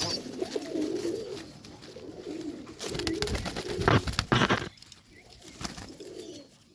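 Serbian highflyer pigeons cooing in a loft: repeated low, warbling coos. Scattered scuffs and rustles, loudest about three to four and a half seconds in. It goes quieter near the end.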